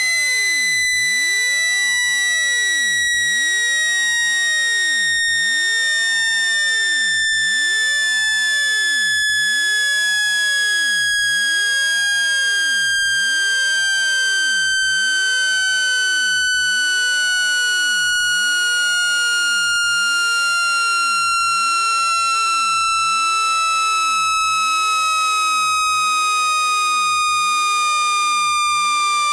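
Synthesized speaker-cleaning tone for pushing water out of a wet phone speaker: a loud, buzzy electronic tone gliding slowly and steadily down in pitch, with a faint tick about once a second.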